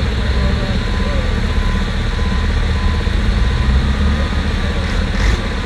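Heavy truck diesel engines running as trucks roll by, a steady low rumble, with a brief hiss about five seconds in.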